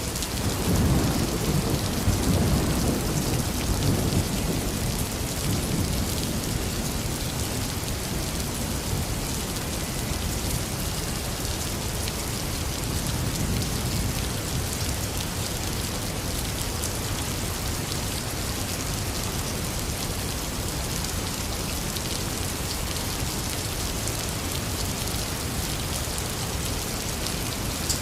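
Heavy rain falling steadily. A low rumble of thunder starts just after the beginning, swells for a few seconds and dies away by about five seconds in.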